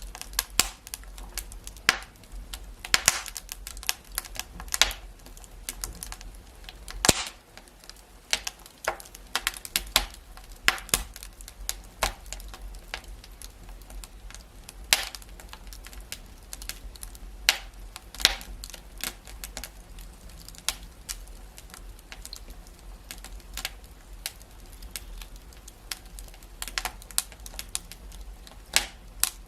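Wood fire in a fireplace crackling, with irregular sharp pops and snaps over a faint steady hiss and low hum.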